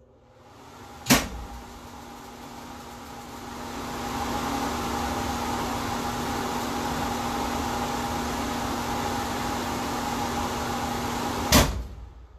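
A switch clicks and a power supply comes on, running with a steady hum and a rushing noise that builds over the first few seconds and then holds level. A second click near the end shuts it off. It runs the whole time on its newly replaced fuse without the fuse blowing, a successful test.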